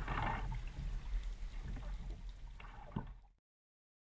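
Water splashing and lapping around a kayak, with a few light knocks and a low rumble underneath. The sound cuts off suddenly about three and a half seconds in.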